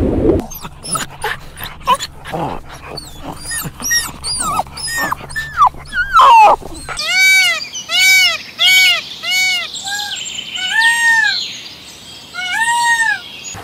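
A dog yipping and whimpering, then a run of short, high whines that rise and fall, repeated a few times a second, with a couple of longer whines near the end.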